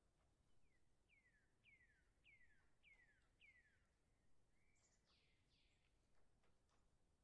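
Faint bird calls: a run of about six clear, descending whistled notes, roughly two a second, followed by two or three harsher calls.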